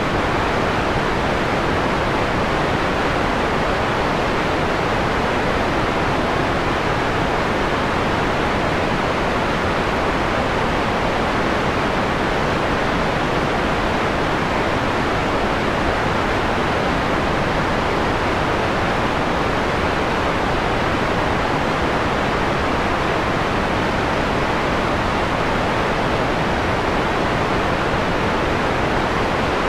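Steady synthetic white noise, partly dimmed to a softer, mellower hiss with its top end rolled off, continuous with no changes.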